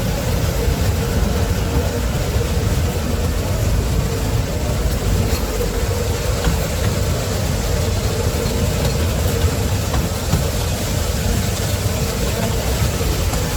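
An engine idling steadily: a continuous low rumble with a steady hum over it.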